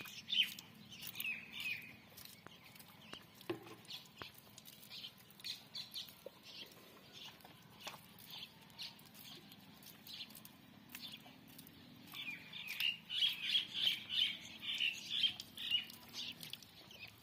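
Birds chirping in short calls, with a denser, louder run of chirping about twelve seconds in, over scattered faint clicks.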